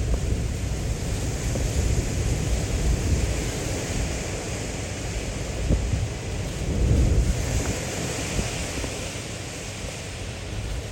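Typhoon wind gusting hard and buffeting the microphone, over the rush of surf. A stronger gust swells about seven seconds in.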